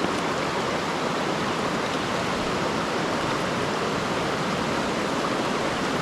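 Mountain stream rushing steadily, a constant even hiss of moving water.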